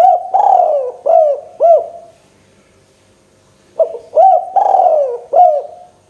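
Spotted dove (tekukur) cooing: two phrases of four or five arched coo notes each, the first at the start and the second about four seconds in.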